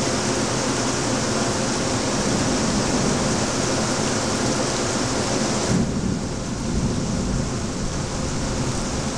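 Heavy rain pouring in a thunderstorm, a dense steady hiss with a low rumble underneath. About six seconds in, the high hiss of the rain drops off suddenly, leaving the lower rumble.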